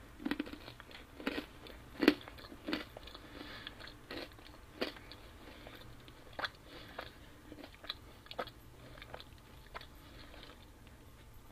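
Close-miked chewing and biting of pizza, with crisp crunches that come thick in the first few seconds and then more spread out.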